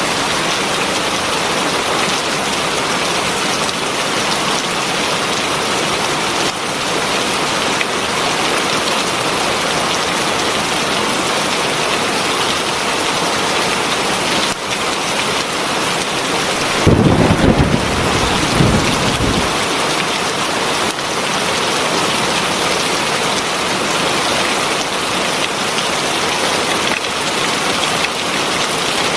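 Heavy rain falling steadily. About two-thirds of the way through, a short low rumble of thunder lasts two or three seconds.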